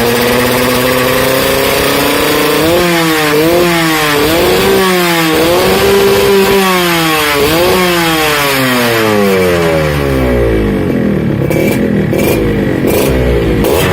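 Yamaha RX-King two-stroke single-cylinder motorcycle engine with an aftermarket racing exhaust, running steadily at first, then revved in repeated quick throttle blips from about three seconds in, the pitch rising and falling with each one.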